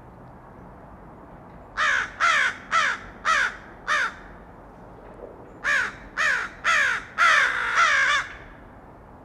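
A bird calling in two series of about five short calls each, every call falling in pitch. The first series starts near two seconds in, and the second about a second after the first ends, with its last calls running close together.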